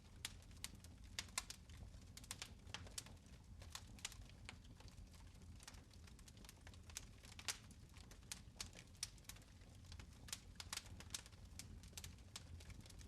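Fire in a fireplace quietly crackling and popping: irregular sharp snaps, several a second, over a low steady rumble.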